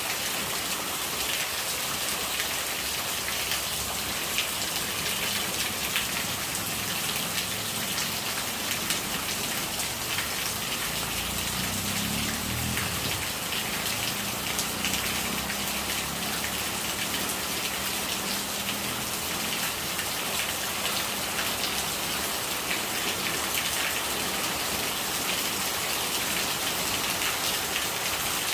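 Steady rain falling, a dense patter of drops over running, gurgling rainwater.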